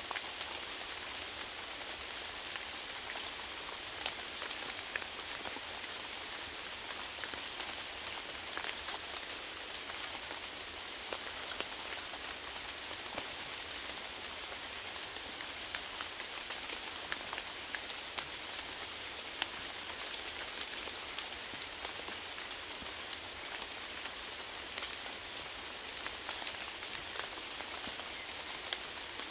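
Steady rainfall hissing on a surface, with individual raindrops ticking sharply here and there.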